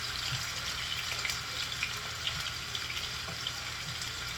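Seasoned salmon frying in hot oil: a steady sizzle with scattered small crackles.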